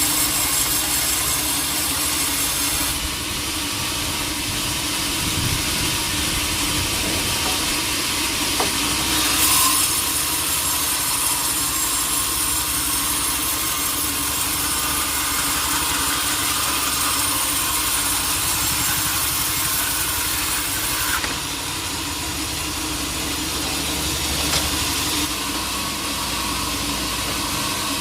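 Sawmill machinery running: a steady motor hum under the hiss of a saw cutting through wood, the saw noise shifting in strength every several seconds.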